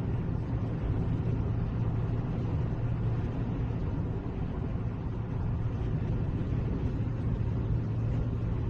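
Steady low rumble of a moving vehicle, engine and road noise with no impacts.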